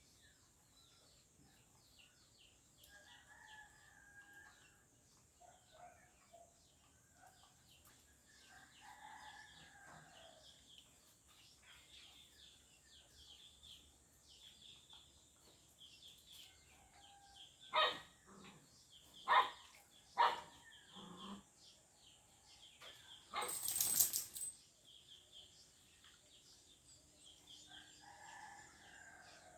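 Farmyard chickens calling now and then, with a few sharp knocks in quick succession partway through and a short burst of wing flapping about 24 seconds in.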